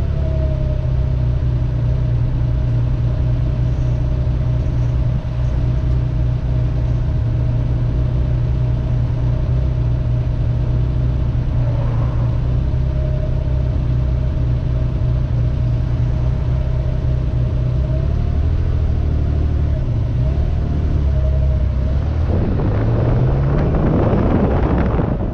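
Porsche 914-6's 2.7-litre twin-plug flat-six idling steadily, then revving up and pulling away about 22 seconds in, with wind noise building as the car gathers speed.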